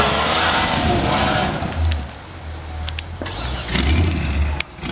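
A motor vehicle engine running, its level rising and falling, with a few sharp clicks in the middle and near the end.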